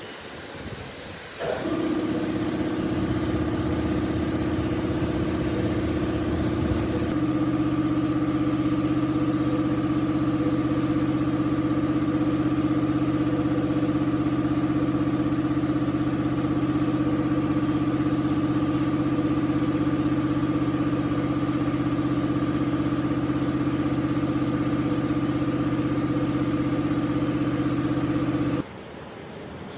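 A power tool's electric motor spins up with a quick rising whine, then runs at a steady speed with an even hum and a high whine. It cuts off suddenly near the end.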